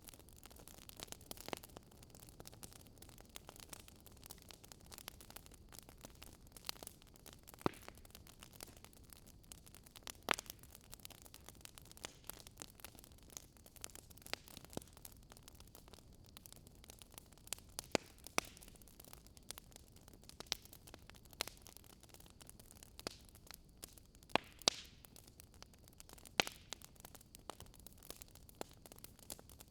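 Fire crackling: irregular sharp pops and snaps over a soft hiss, with a handful of louder snaps scattered through.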